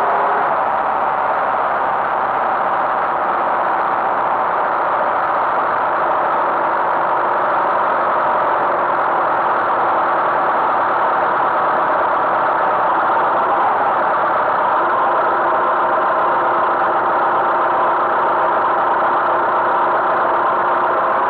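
Tractor engine running at a steady speed, an even drone with no change in pitch.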